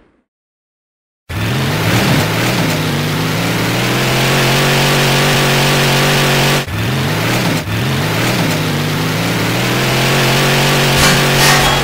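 Car engine sound effect, loud, revving up and then holding a steady high-revving drone; it starts about a second in and breaks off and revs up again twice near the middle.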